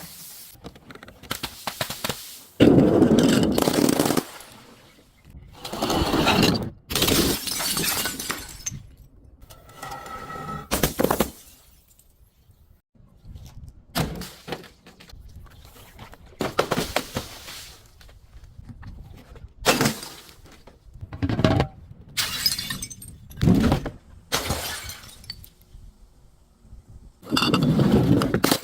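Glass bottles breaking and being crushed one after another: a dozen or so separate crashes, some long and crunching, others short and sharp.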